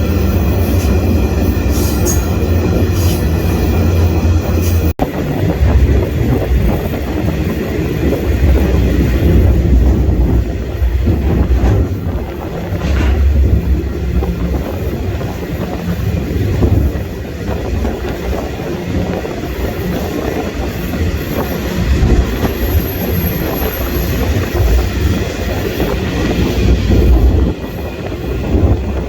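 Freight train rolling: a heavy low rumble with clattering wheels and, in the first few seconds, a steady high wheel squeal.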